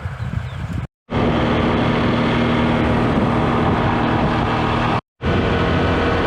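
Motorbike engine running steadily while riding, with rushing wind noise. The sound cuts out abruptly and comes back twice, about a second in and again near the end.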